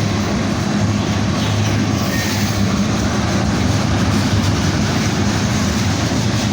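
Freight train of loaded tank cars rolling past: a steady, loud rumble of steel wheels on the rails with a low hum underneath.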